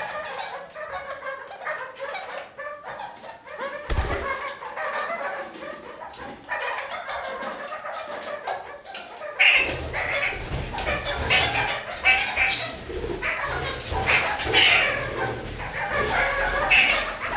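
Red-crowned parakeets (kakariki) chattering and calling without a break, louder and busier in the second half. A low rumble joins about halfway through.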